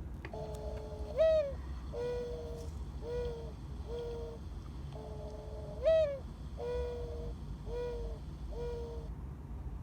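Mourning dove singing its cooing song twice. Each phrase is a drawn-out first coo that rises at its end, followed by three shorter, steady coos.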